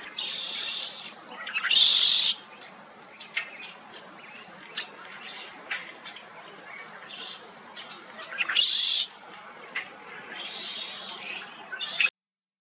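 Wild birds calling: a few loud, harsh calls, with many short chirps and whistles in between. The sound cuts off suddenly just before the end.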